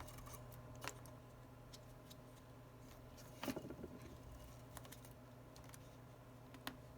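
Faint, scattered small clicks and taps from handling the phone's small parts and repair tools, with a steady low hum underneath. The sharpest cluster comes about three and a half seconds in.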